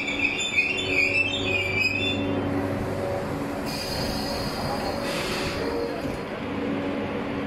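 Train wheels squealing on the rails, a high wavering squeal for the first two seconds, over the steady electric hum of the train. A hiss comes in about halfway through.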